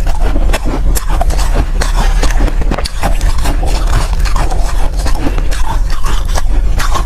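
Close-miked crunching and chewing of soft ice: a dense, irregular run of sharp crunches.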